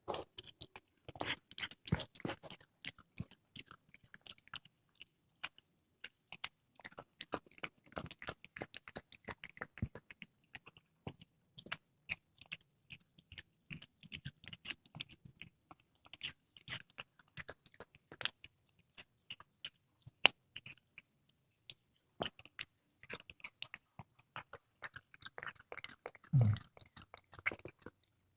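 A cat chewing and crunching through a squirrel, a rapid, irregular run of wet bites and bone crunches. Near the end comes one brief, louder low-pitched sound.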